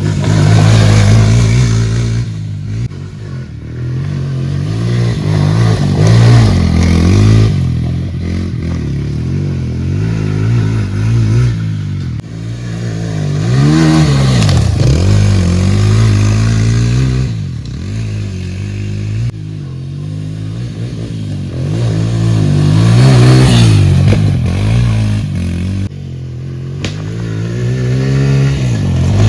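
Pit bike engine revving up and down repeatedly as the bike is ridden, its loudness swelling and falling several times.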